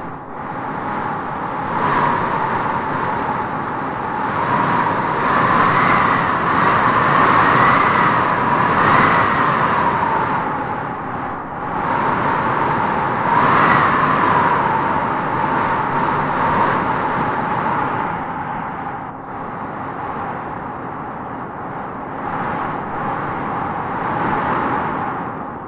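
Wind howling in gusts: a whistling tone that rises in pitch and grows louder as each gust swells, over a steady rushing noise, with the strongest gusts in the middle.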